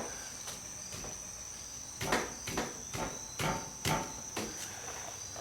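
Light metallic clicks and knocks of hand tools and parts on a car's rear wheel hub and its retaining ring, about six of them in the second half, over a steady high-pitched whine.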